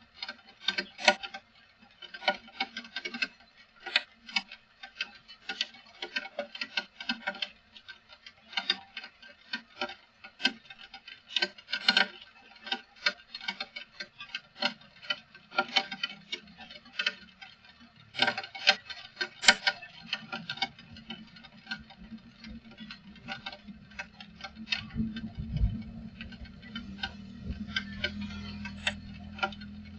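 Rainwater dripping, irregular sharp drips hitting a hard surface several times a second. A low steady hum comes in near the end.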